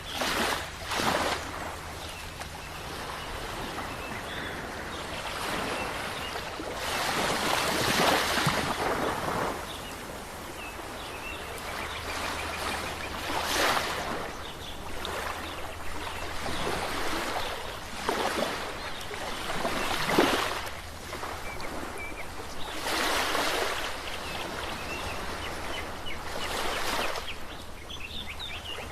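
Ocean waves breaking on a shore: a steady wash of surf that swells into a louder break every few seconds, at an uneven pace.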